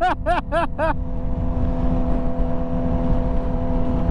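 A short run of excited laughter, about four pulses a second, stops about a second in. Under it and after, a motorcycle engine runs steadily at highway cruising speed, with wind rush.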